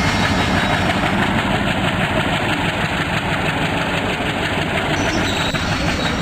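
A train running through the station, with a steady heavy rumble and rattle of its wheels and running gear.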